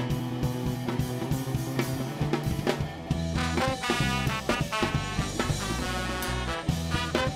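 Ska band playing an instrumental passage with a drum kit keeping time. A brighter, higher melodic line comes in about three seconds in.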